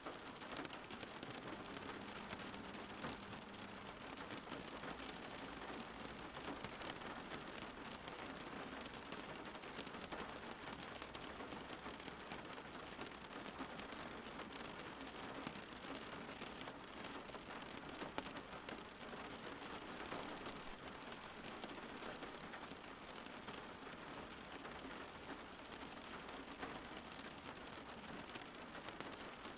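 Steady rain falling: a dense, even patter of countless drops with no break or change.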